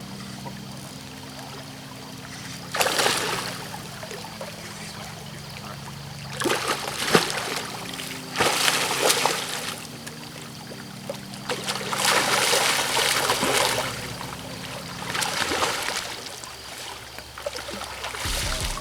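River water flowing, broken by about five loud bursts of splashing, the longest lasting nearly two seconds past the middle.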